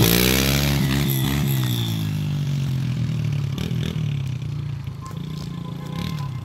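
Small 110cc Yamaha four-stroke dirt bike engine: its revs drop right at the start after a hard rev, then it keeps running at lower revs, growing gradually fainter.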